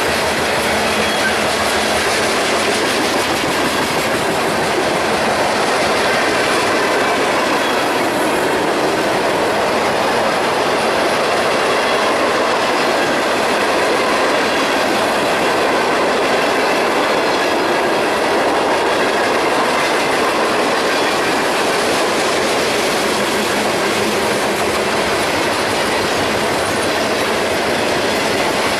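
Freight train cars rolling past close by: a steady, loud rush of steel wheels on rail with a clickety-clack over the rail joints and a faint high wheel squeal.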